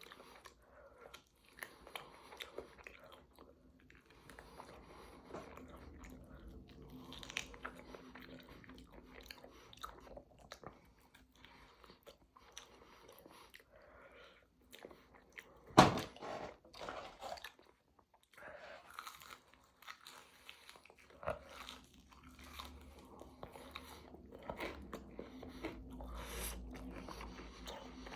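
Close-up chewing and biting of bone-in chicken wings, with wet mouth sounds and small crunches. A single sharp knock about halfway through stands out above the chewing.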